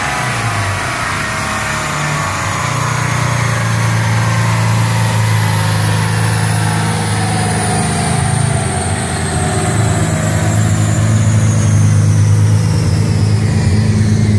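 Twin-turbocharged Nissan 350Z V6 running steadily at low speed on a chassis dyno just after a full-power pull, with a high whine that falls slowly in pitch as the car winds down.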